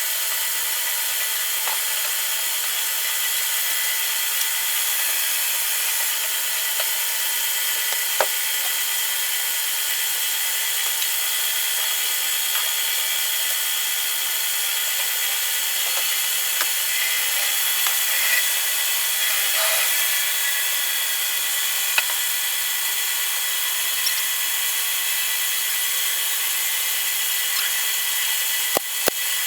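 Electric power tool running steadily while working pine, with a continuous whine and a few small clicks along the way.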